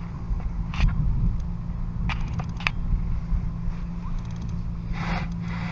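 Steady low wind rumble on the microphone, heavily noise-reduced, with a few scattered clicks and a quick rattle of ticks from handling gear on the boat.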